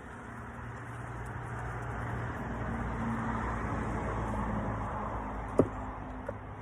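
A vehicle going by, its rumble swelling for a few seconds and then fading. One sharp click comes about five and a half seconds in.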